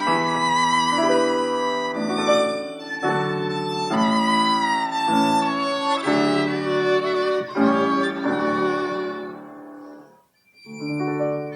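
Violin playing a melody with vibrato over piano accompaniment. The music breaks off briefly about ten seconds in, then resumes.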